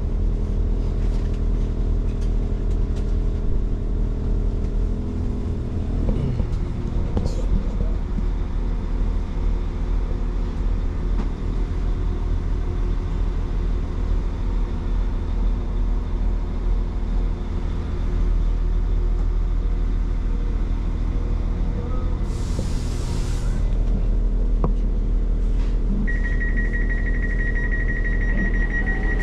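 A stationary passenger train's engine and onboard equipment humming steadily inside the carriage. About 22 seconds in there is a short hiss of air. A steady high electronic tone starts near the end.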